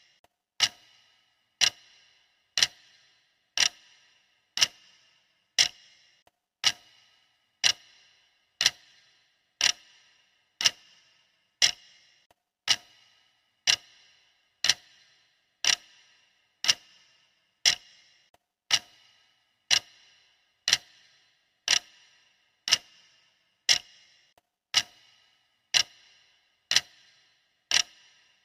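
Clock ticking steadily, one sharp tick per second, each with a short ringing tail, marking off the seconds of a countdown timer.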